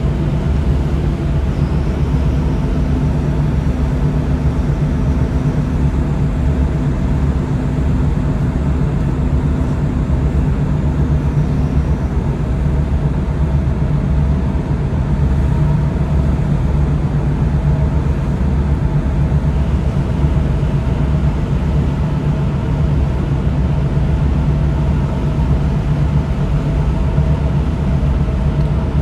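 Tugboat's diesel engine running at a steady hum under way, a deep even drone with a few steady low tones over it.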